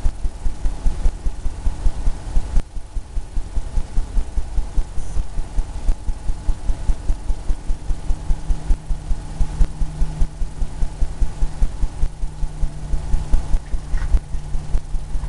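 Paintbrush dabbing paint onto a canvas: a steady run of low thumps, about four a second.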